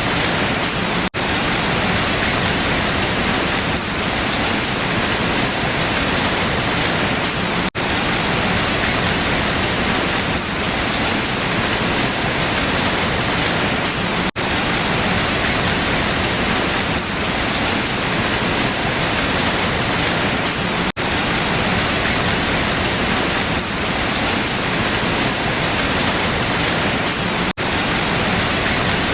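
Steady, dense rain falling on leaves. The sound cuts out for an instant about every six to seven seconds.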